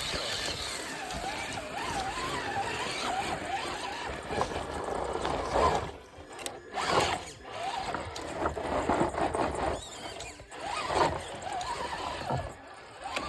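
Electric motor and geared drivetrain of an RC rock crawler whining, the pitch wavering as the throttle is worked. About halfway through it breaks into short bursts with brief drops between them.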